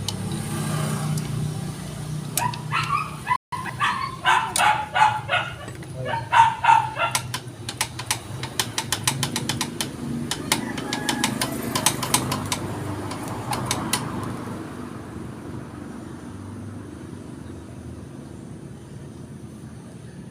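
A dog barking in a quick run of a dozen or so barks, starting about two seconds in, over a steady low hum. Afterwards comes a rapid string of sharp clicks that lasts several seconds.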